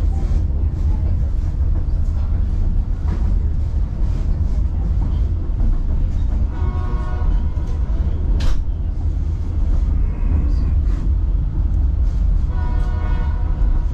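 A passenger train running along the track, heard from aboard, with a steady low rumble. The locomotive's horn sounds twice, each a held chord of about a second: once about halfway through and again near the end.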